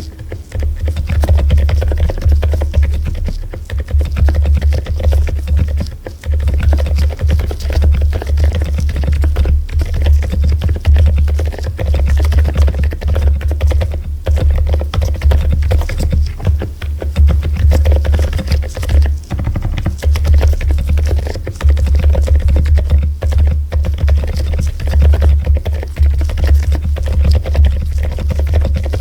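Background music with a heavy bass line, and fast typing on a mechanical keyboard clicking underneath.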